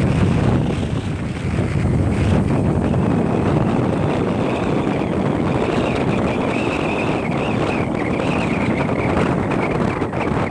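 Sea wind buffeting the microphone over the rush of surf. A faint wavering high tone sounds through the middle few seconds.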